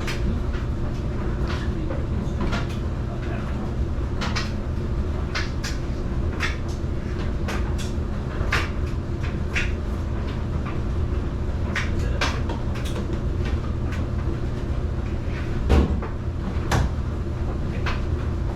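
A steady low mechanical hum with many sharp clicks and knocks over it, the loudest knock near the end.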